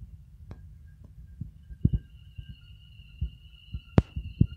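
Electric multiple-unit train rolling slowly past, its wheels giving irregular dull thumps and clunks over the rail joints under a low rumble, with a steady high whine. One sharp knock about four seconds in is the loudest.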